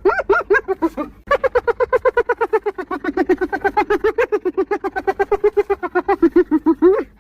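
Spotted hyena giggling: a fast string of high, pitched whoops at about eight to ten a second. A short bout breaks off about a second in, then a long unbroken run follows and ends on a rising note.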